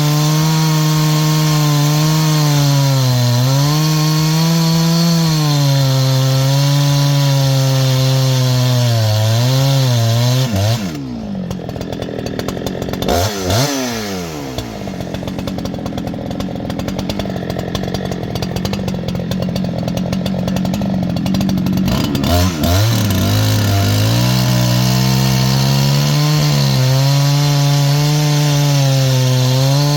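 Two-stroke G288 chainsaw, 80–90cc class, with a tungsten carbide chain, running at high revs through a wet log, the pitch wavering under load. About eleven seconds in the revs drop sharply and stay low and quieter for about eleven seconds, then climb back to full speed.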